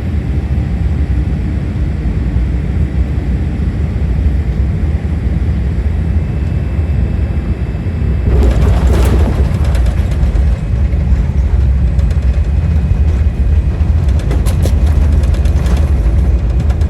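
Jet airliner landing: a steady low rumble. A louder rush of noise swells about halfway through, and a run of rattling clicks comes near the end.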